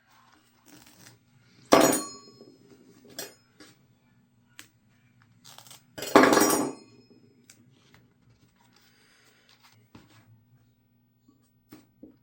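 Duct tape being handled and worked: two loud, short rips, about a second in and again about six seconds in, with light clicks and rustles between them and a faint steady hum underneath.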